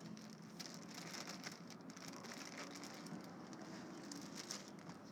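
Dry bird seed pattering softly as it is handled, with many small scattered clicks.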